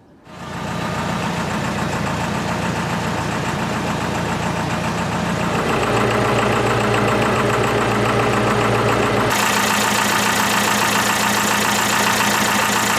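Boat's Mercedes OM636 four-cylinder diesel engine running steadily, loud and close. Its pitch steps abruptly twice, about six and nine seconds in.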